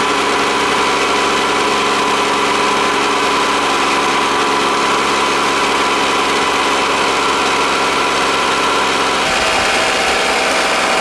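Freshly rebuilt Toyota 5S-FE 2.2-litre four-cylinder engine idling steadily in one of its first runs after the rebuild. The tone changes slightly about nine seconds in.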